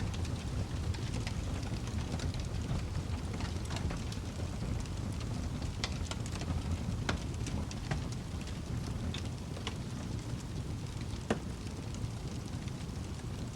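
Wood fire in a fireplace crackling: a steady low rumble of flames with scattered sharp pops and snaps, a few of them louder.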